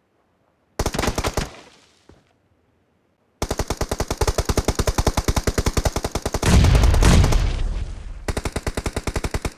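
Video-game automatic gunfire: a short burst about a second in, then after a pause a long run of rapid fire at about ten shots a second that lasts to the end, louder and deeper for about a second around two-thirds through.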